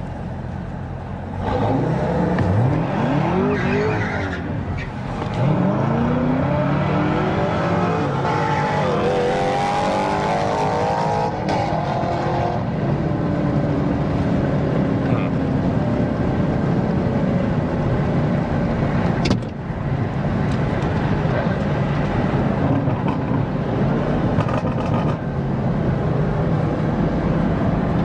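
Supercharged 6.2-litre V8 of a Camaro ZL1 1LE launching on a drag strip and pulling hard through the gears: engine pitch rises in sweeps, each cut by a shift, over roughly the first twelve seconds, then the engine runs on at a steadier drone.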